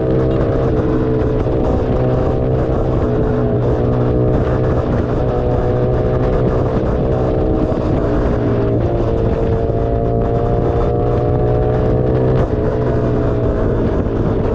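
Keeway SCR 250's V-twin engine running through a Racefit free-flow exhaust. Its pitch drifts slowly up and down and shifts abruptly a few times.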